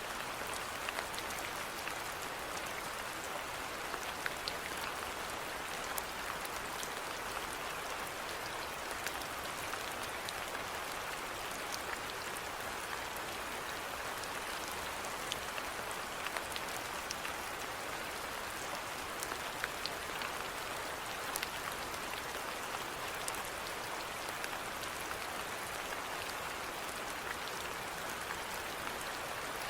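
Steady rainfall, an even hiss with many small scattered drop ticks.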